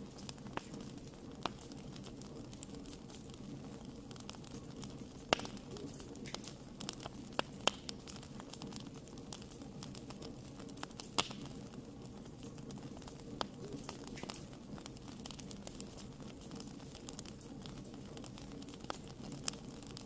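Wood fire burning in a fireplace: a steady low hiss and rumble of flames with frequent sharp crackles and pops, a few louder ones scattered through.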